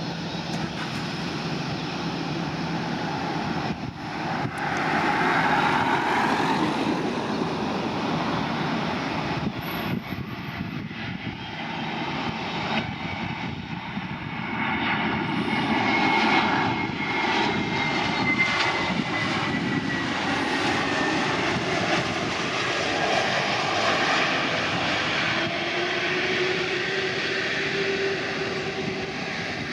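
Jet airliner's engines running at close range, the noise swelling and easing, with a high whine that slides down in pitch around the middle and a lower tone rising near the end.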